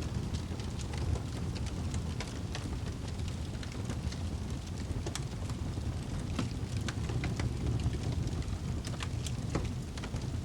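Wood fire in a fireplace burning with a steady low roar and irregular sharp crackles and pops.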